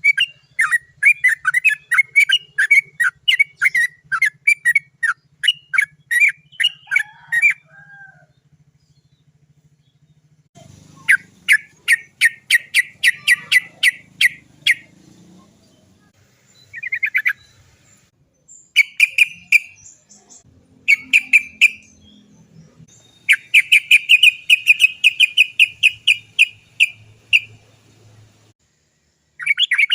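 Yellow-vented bulbul (trucukan) calling in rapid runs of short, repeated "cok cok cok" notes, with the runs broken by short pauses. The longest pause comes about a third of the way in.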